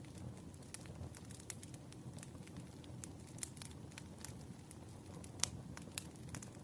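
Campfire burning: a steady low rumble of flames with scattered crackles and pops from the burning wood, one louder pop about five and a half seconds in.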